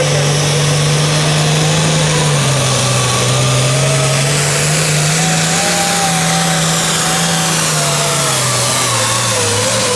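Pulling vehicle's engine running loud at high revs, its pitch wavering slowly and sagging a little near the end.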